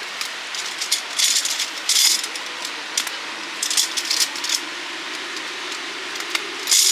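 Light metal camping gear being handled: scattered clinks and rattles, with small clusters about a second in, at two seconds, around four seconds and near the end, over a steady rush of wind.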